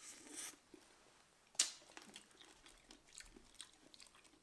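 Close-up mouth sounds of someone eating fresh red currants: a brief hiss at the start, a sharp crunch about a second and a half in as the berries are bitten, then soft, wet chewing clicks.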